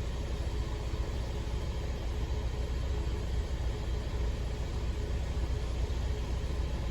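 Steady low rumble of a truck running, even throughout.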